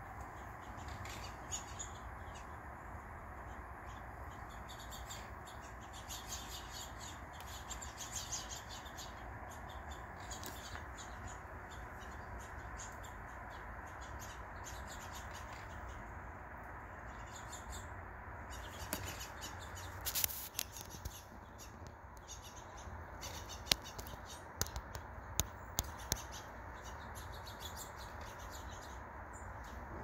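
Small songbirds chirping with many short, high calls over a steady low background hum, with a few sharp clicks in the second half.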